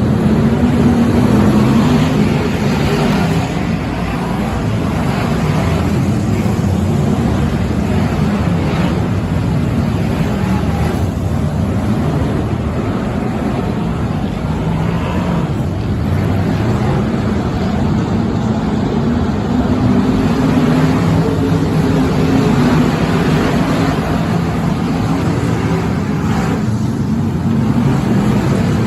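Stock car engines running at racing speed, a loud continuous drone that wavers in pitch, with a few brief swells as cars go past.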